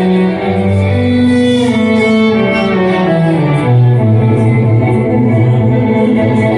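Live band music in an instrumental passage with no vocals: sustained held notes, with a falling slide in pitch from about two to three and a half seconds in.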